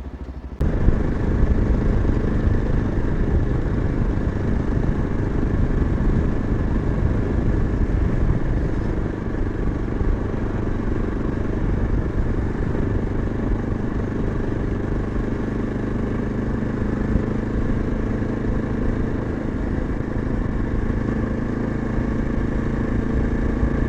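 Yezdi Adventure motorcycle's single-cylinder engine, heard from the rider's seat. It runs quietly for the first half second, then gets suddenly much louder and runs steadily under way with a rush of road noise.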